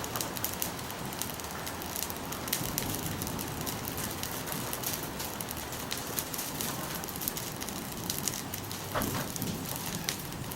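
Bonfire of fallen pine-branch debris burning, with a steady hiss and many quick sharp crackles.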